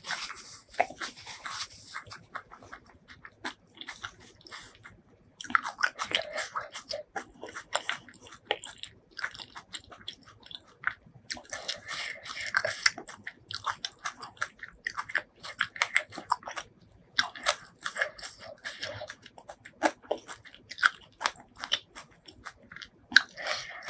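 A person chewing and biting food close to the microphone: irregular crunching and wet mouth clicks in bursts, with short pauses between mouthfuls.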